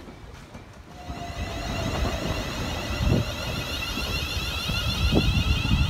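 London Northwestern Railway electric multiple unit running in along the platform, its rumble growing about a second in as it nears. A high whine sits over the rumble, and there are a few sharp knocks from the train.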